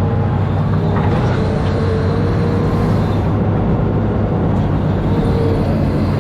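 Amphibious excavator's diesel engine running steadily, with a faint whine that comes and goes over it.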